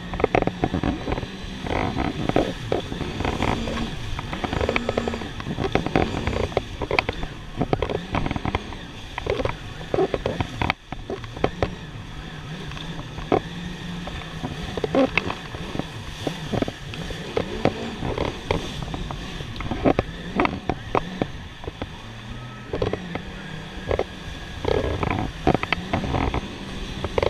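Jet ski engine running with a steady low hum, under choppy, irregular knocks and splashes of water and wind.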